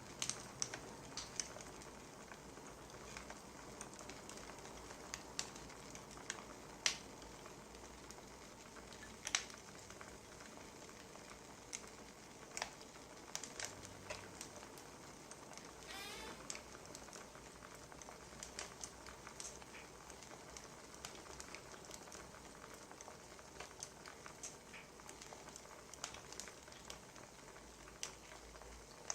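Wood fire crackling: scattered sharp pops over a steady faint hiss.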